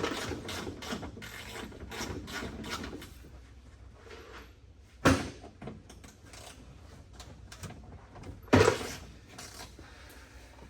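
Hand ratchet clicking rapidly for the first few seconds, then two sharp knocks of tools or parts against metal.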